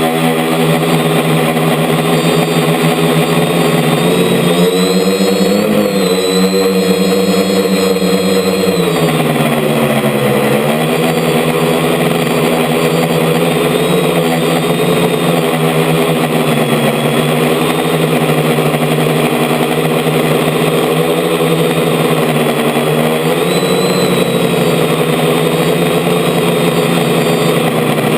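DJI F450 quadcopter's four electric motors and propellers whirring loudly, picked up by the camera mounted on the frame. The pitch rises and falls several times as the throttle changes, with a dip about ten seconds in.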